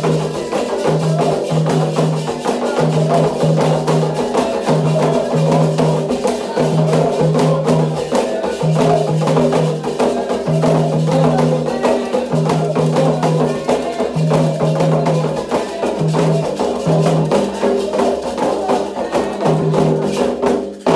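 Candomblé toque de Ogum: a fast, continuous rhythm of atabaque hand drums with a bright struck bell or wood-block-like part.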